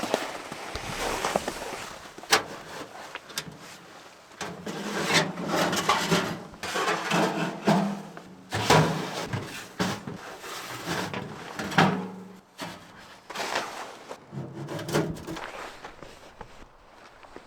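Irregular scraping and crunching of snow and gear being handled, broken by several sharp knocks, with a denser stretch of scraping in the middle.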